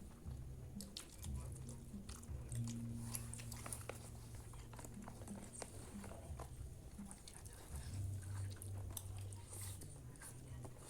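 Close-up eating sounds of fried rice and fried noodles: chewing and biting, with many short sharp clicks scattered throughout, over a steady low hum.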